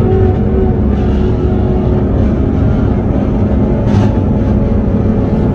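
Steady drone of a Chevrolet Camaro ZL1's supercharged 6.2-litre V8 and road noise, heard inside the cabin while cruising at highway speed with no hard acceleration.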